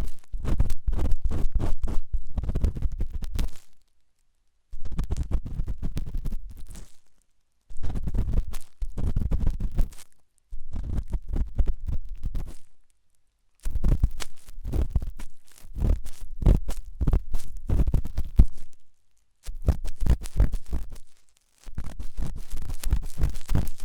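Ear cleaning with an ear pick, pressed hard and scraping and scratching with a dense crackle close to the microphone. It comes in about eight bursts of two to three seconds, with short pauses between them.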